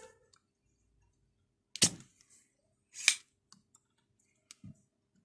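Spring-loaded desoldering pump (solder sucker) snapping twice as its plunger is released to suck molten solder off the MOSFET's legs, with a few faint ticks between.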